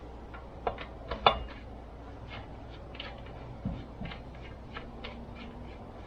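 Irregular light clicks and taps of small parts and hand tools being handled while a chainsaw is put back together, with one sharper knock about a second in.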